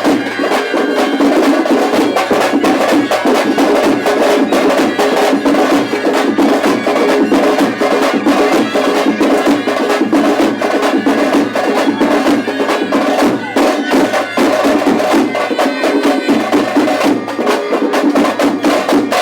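Traditional percussion ensemble drumming a loud, fast, continuous rhythm of rapid strokes.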